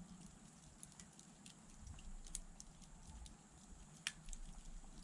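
Faint, irregular crackles and pops from a wood candle of bundled thin logs burning down near the end of its burn, about five sharp snaps over a low rumble.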